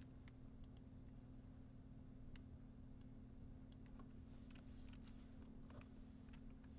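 Faint, scattered computer keyboard keystrokes and mouse clicks, a short run of them about four to five seconds in, over a steady low electrical hum.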